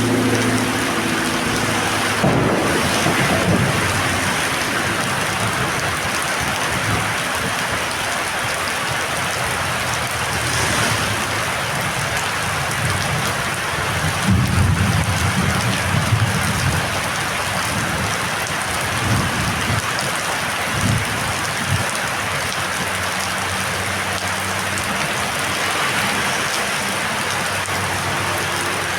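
Heavy rain pouring steadily, with low rumbles swelling up a few times.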